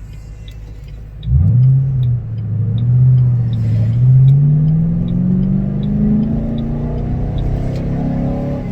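2006 Mustang GT's 4.6-litre V8 idling low, then about a second in revving up suddenly as the car pulls away, its pitch dipping briefly and then climbing steadily as it accelerates before levelling off near the end.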